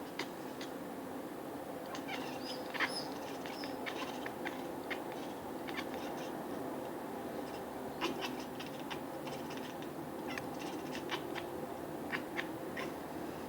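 Small birds chirping: many short, high chirps scattered irregularly, with a few brief clusters, over a steady low background hum.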